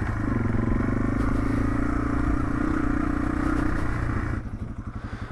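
Yamaha TW200's single-cylinder four-stroke engine running steadily while riding, then dropping to a quieter, low pulsing putter about four seconds in.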